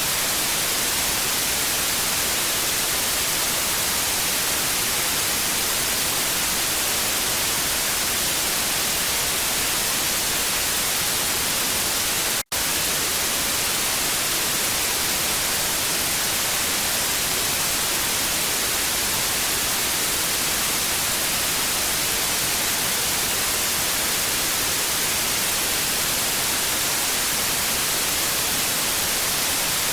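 Television static: a steady hiss, strongest in the high frequencies, broken once by a split-second gap near the middle.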